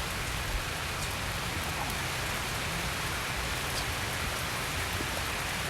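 Steady rain falling, with a few faint individual drops ticking now and then.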